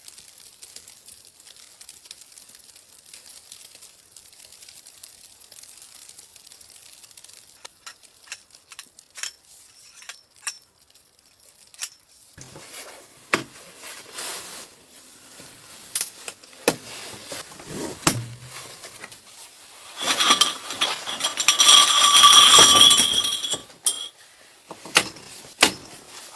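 Scattered clinks and knocks of small hard objects being handled. Near the end comes a louder stretch of about four seconds, scraping with a ringing, metallic edge.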